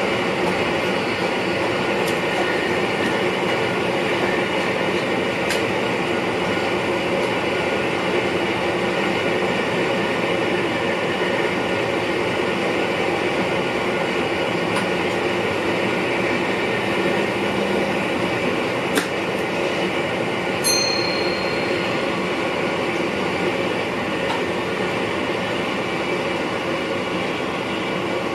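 NS VIRM double-deck electric train running along the track, a steady rolling rumble heard inside the driver's cab. A few sharp clicks come through, and a short high tone sounds about two-thirds of the way in.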